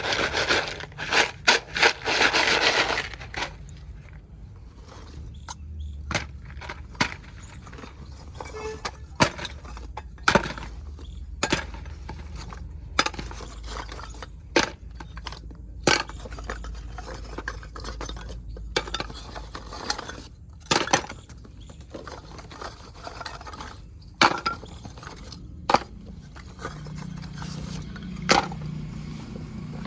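Baked clay kulhad cups being broken and crushed by hand: a quick run of crunchy cracks at first, then single sharp snaps every second or two.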